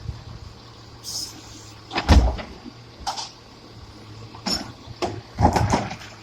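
A handful of separate knocks and bangs, the loudest and deepest about two seconds in, over a steady low hum.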